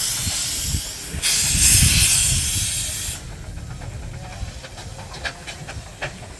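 Steam traction engine blowing off steam: a loud hiss that swells about a second in and stops about halfway through, leaving a low rumble with scattered clicks.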